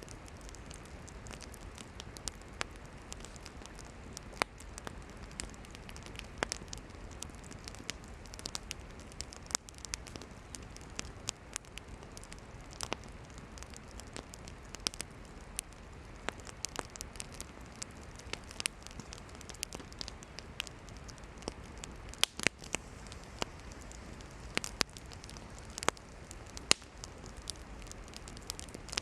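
Wood campfire burning: a steady low hiss with frequent sharp, irregular crackles and pops from the burning firewood, a few louder pops clustering about two-thirds of the way through.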